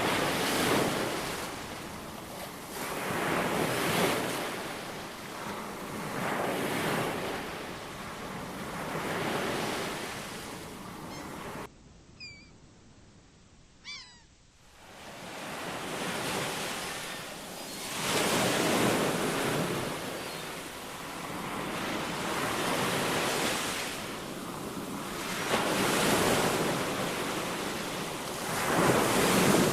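Ocean surf breaking and washing in, swelling about every three seconds. About twelve seconds in, the surf cuts out for some three seconds, and two short high-pitched animal calls sound in the gap before the waves return.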